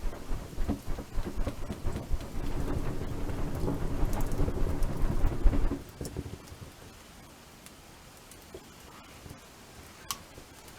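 Wood campfire burning: dense crackling over a low rumble for about the first six seconds, then it drops off sharply to a quieter burn with a few scattered pops, one sharp pop near the end.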